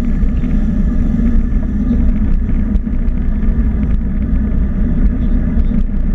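Steady rumble of wind and road noise from a moving ride, unbroken throughout, with small scattered ticks.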